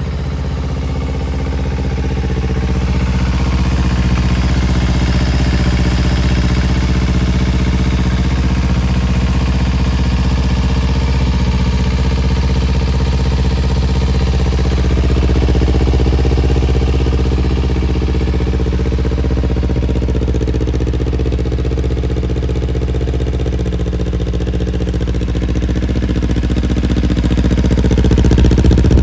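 Kawasaki Ninja 250 motorcycle engine idling steadily after starting, holding an even speed.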